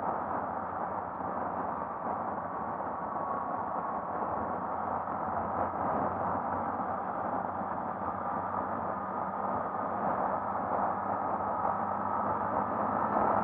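Honda XRE 300 single-cylinder motorcycle cruising steadily, its engine hum under a constant rush of riding wind on the camera microphone, getting a little louder near the end.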